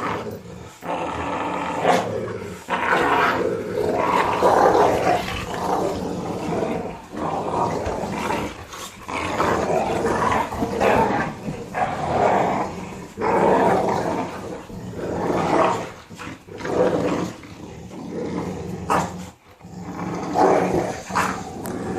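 Several puppies growling together in a playful tug-of-war over a rope, in long ragged stretches with short breaks.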